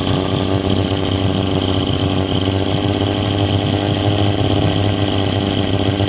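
Small boat motor running steadily at an even speed.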